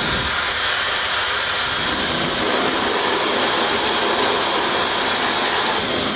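High-speed hair dryer running on its cold-air setting, a loud, steady hiss of blown air.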